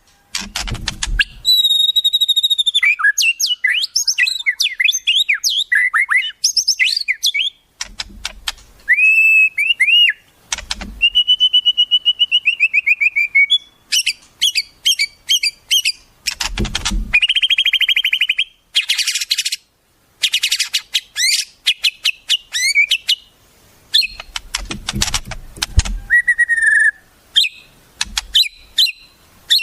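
Wild songbird calls: a loud, varied run of clear whistles, quick trills and fast series of repeated notes, broken every few seconds by short harsh rattling bursts.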